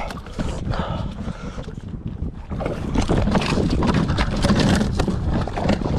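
Wind buffeting the microphone on a kayak at sea, with splashing and a run of knocks and handling noises.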